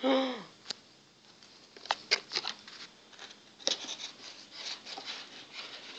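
Scattered clicks, taps and crinkles of hands handling the RC airplane's parts and wiring, opening with a brief falling hum from a person's voice.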